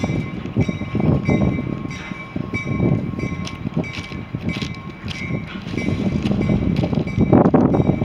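A train rolling past on the rails: a steady rumble of railcars with rapid clicks and knocks from the wheels, growing louder about seven seconds in.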